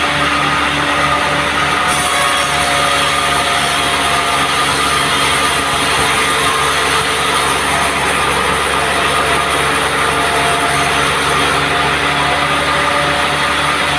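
Engine-driven band sawmill running steadily with a regular low pulse. From about two seconds in until near the end, a loud hiss joins it as the blade cuts through a teak log.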